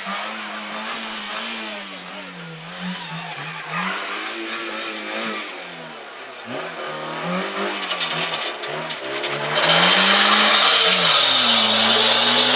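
Competition car's engine revving, its pitch rising and falling several times as the driver goes on and off the throttle and through the gears. About three quarters of the way through, a loud rushing noise joins as the car comes closest.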